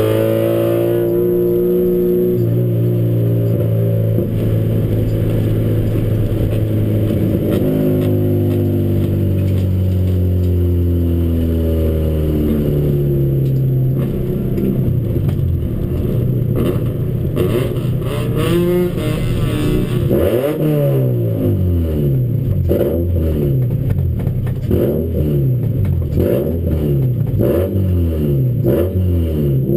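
Toyota Starlet race car's engine, heard from inside the cabin under hard driving. For the first half it holds high revs in long, slowly shifting notes. From about two-thirds of the way through, the revs rise and fall in quick, short sweeps, about one a second.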